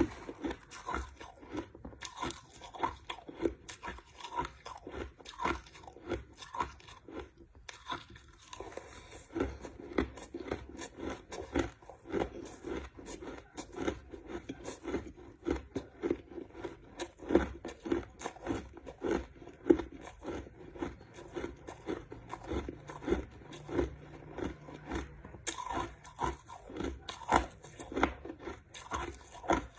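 A person chewing crushed ice: a steady run of sharp crunches, about two to three a second, with a brief pause about eight seconds in.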